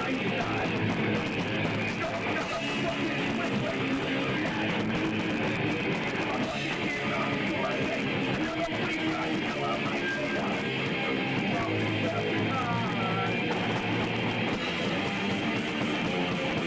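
Punk rock band playing live, electric guitar to the fore, a dense steady wall of sound with no breaks.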